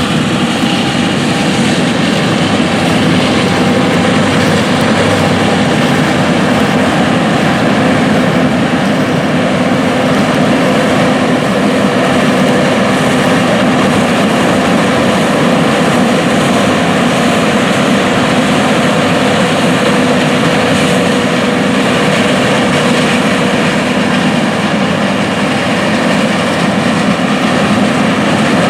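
Big John Deere farm machine, a combine or four-wheel-drive tractor, with its diesel engine running steadily at working speed: a loud continuous drone with a few steady whining tones over it.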